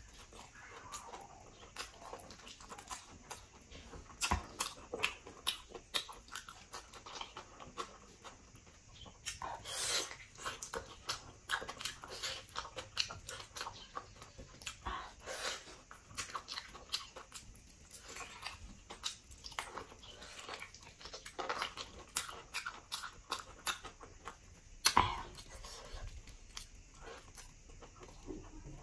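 Close-miked mouth sounds of eating braised pork leg: biting and wet chewing, with dense irregular clicks and smacks throughout and one louder click near the end.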